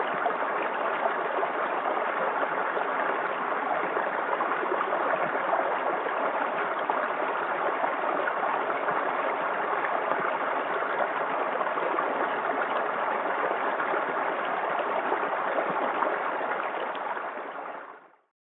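Stream water flowing and rushing steadily down a valley, then fading out quickly near the end.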